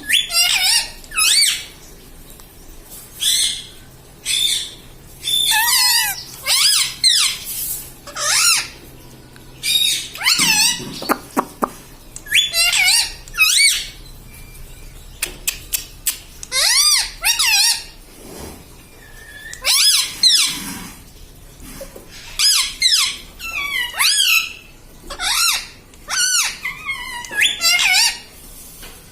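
Indian ringneck parakeet calling in a long string of short, shrill squawks and chatter, each call bending up and down in pitch, with brief pauses between them.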